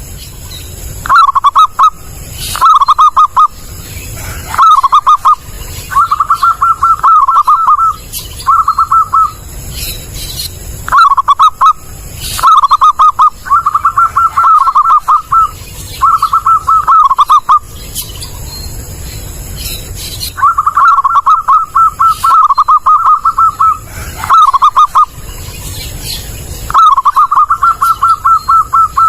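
Zebra dove (perkutut) cooing loudly: phrase after phrase of rapid, rolling coos, each a second or two long, with short pauses between them.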